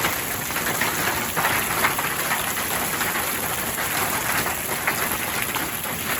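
Hail falling steadily, a dense hiss of countless small impacts with sharper individual ticks scattered through it.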